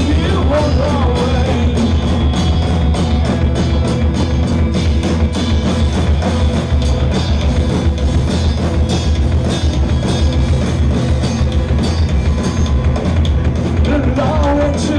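Live rock band playing loudly: a steady drum-kit beat over heavy bass and electric guitars, with a wavering melodic line near the start and again near the end.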